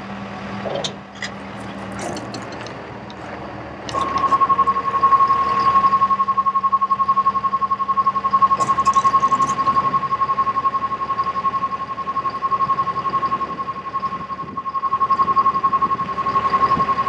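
Bucket truck's electronic warning alarm sounding a rapidly pulsing steady-pitched beep that starts about four seconds in, over a low hum, with a few sharp clicks in the first two seconds.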